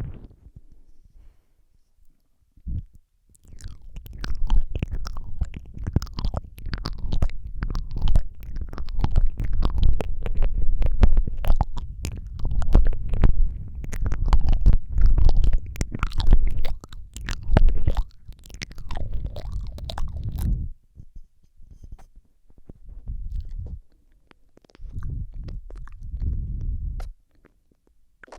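Close wet mouth sounds into a Rode microphone: rapid lip smacks and tongue clicks with a low rumble of breath on the microphone, coming thick and fast for most of the first two-thirds, then dropping off and returning in a couple of short bursts near the end.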